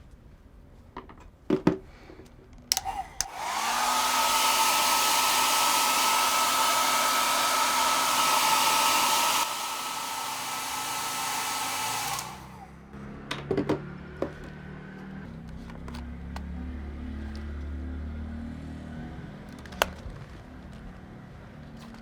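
A small electric motor-and-fan appliance is switched on after a couple of clicks. It spins up with a steady whine over a loud rush of air, steps down once partway through, and is switched off after about nine seconds.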